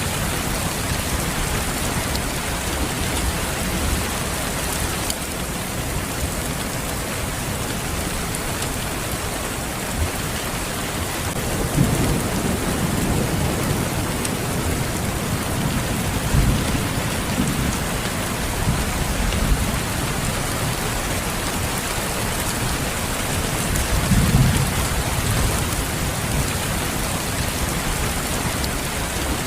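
Steady, dense rain pattering down, with low rolls of thunder swelling and fading a few times from about twelve seconds in.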